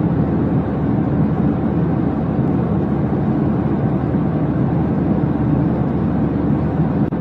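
Steady low rumbling noise, even throughout, with no separate events.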